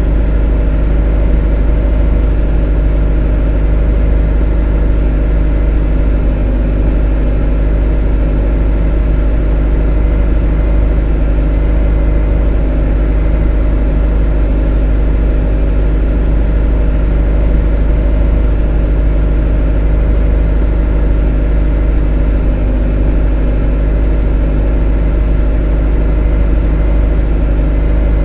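Motor running steadily, an unchanging drone with a strong low rumble and several steady tones above it.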